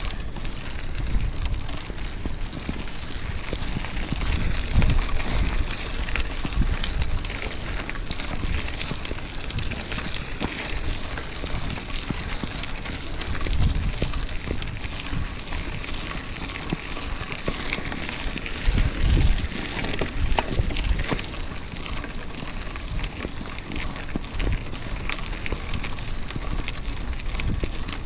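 Mountain bike rolling over a dirt road, its tyres crackling over loose gravel with many small sharp clicks, while wind buffets the microphone in irregular low rumbles.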